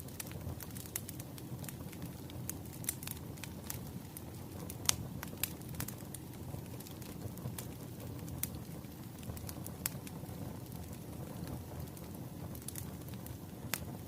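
Wood fire burning with a steady low rumble and irregular sharp crackles and pops, the loudest pop about five seconds in.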